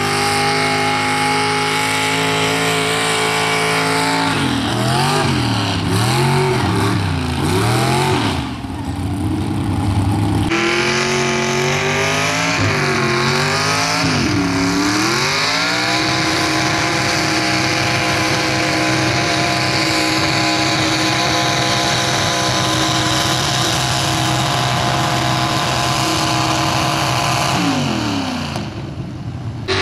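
Pickup truck engine at full throttle pulling a weight-transfer sled. The engine speed surges up and down about once a second, then holds high and steady, and falls away near the end as the pull ends.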